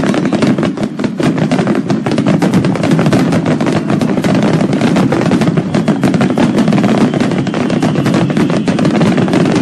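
A string of firecrackers going off in a rapid, unbroken run of sharp bangs, loud and continuous.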